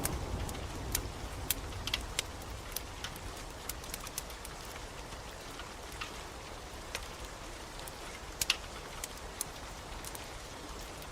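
Steady rain hiss mixed with the irregular sharp crackles and pops of a wood fire, a few close together near the start and a double pop about eight and a half seconds in.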